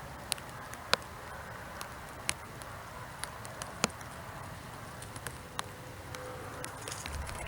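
Light rain starting to fall: scattered sharp drops ticking and tapping at an uneven pace over a soft steady hiss, a few drops much louder than the rest.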